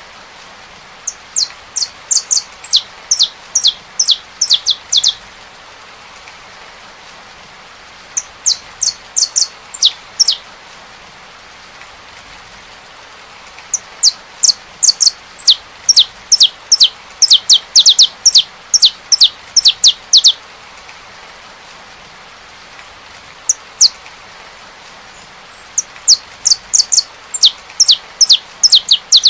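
Saffron finch singing in phrases of rapid, sharp, downward-slurred notes, with gaps of a few seconds between phrases. A steady patter of rain runs underneath.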